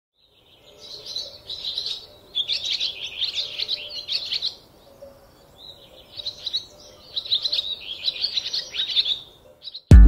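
A songbird singing in the woods: two long runs of rapid, varied chirping notes, the second starting about halfway through.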